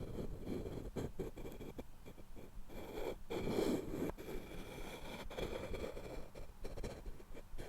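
Wooden objects being handled close to the microphone: a string of small taps and knocks, with a few longer scraping rubs about three and five seconds in.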